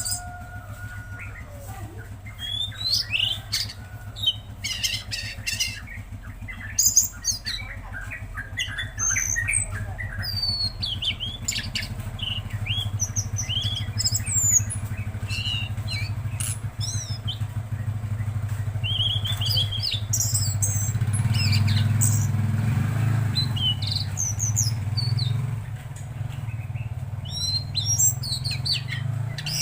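Tledekan laut songbird singing, a busy run of short chirps, sharp whistles and squawky notes. Under it a low engine drone swells to its loudest about two-thirds of the way through, then eases off.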